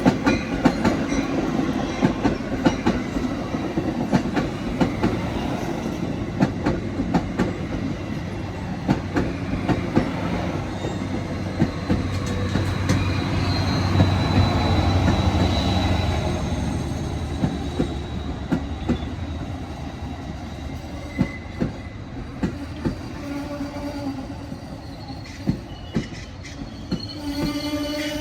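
A train passing, its wheels clicking over the rail joints again and again. The low rumble grows loudest about halfway through and then fades, with a thin high wheel squeal around its loudest point.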